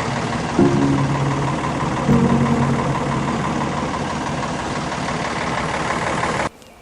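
Backhoe engine running steadily, with a droning tone that swells twice in the first few seconds as the machine works. The sound cuts off suddenly near the end.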